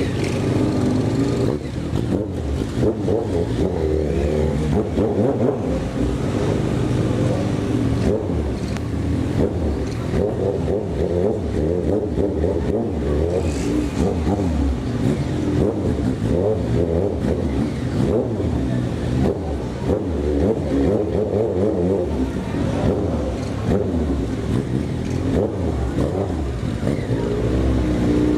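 Motorcycle engine running continuously while riding, its pitch rising and falling as the throttle is opened and eased.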